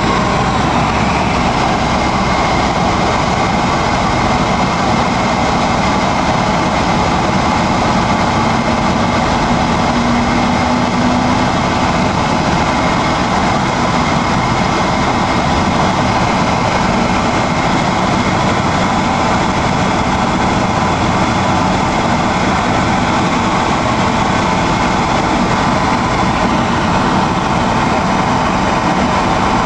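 Helicopter running, a loud steady engine and rotor noise without a break.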